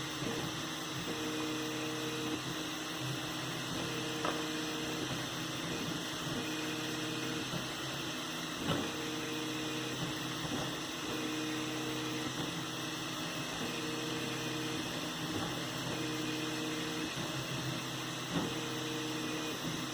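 3D printer running a print: its stepper motors whine in repeated moves of about a second each at a steady pitch, over a steady hum, with a few faint clicks.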